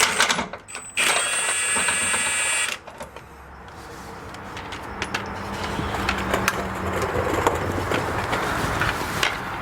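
Cordless impact wrench loosening a Corvette subframe bolt: a loud, high motor whine for under two seconds that stops sharply. It is followed by a quieter mechanical rattle with scattered ticks that builds steadily.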